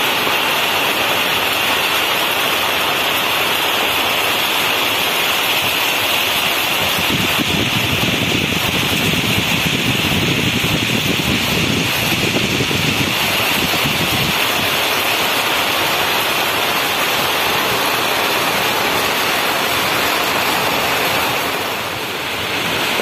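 Heavy rain pouring steadily in a storm, with gusts of wind buffeting the microphone around the middle.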